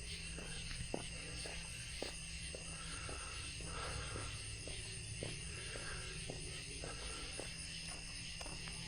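Footsteps at a steady walking pace, about one a second, over a continuous chorus of night insects.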